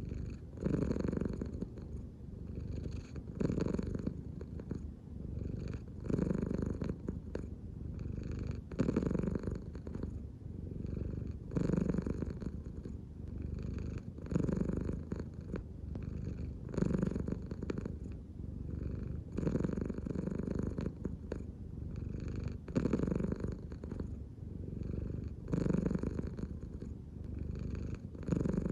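An American Shorthair cat purring close up, a continuous low rumble that swells louder about every two and a half seconds as it breathes in and out.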